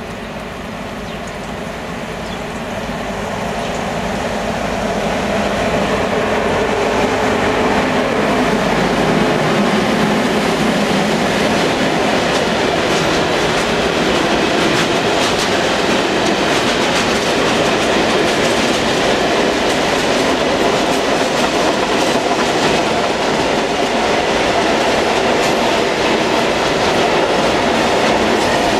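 Train approaching and passing close by. It grows louder over the first several seconds, then holds steady as the wagons roll past, with a constant run of wheel clicks over the rail joints.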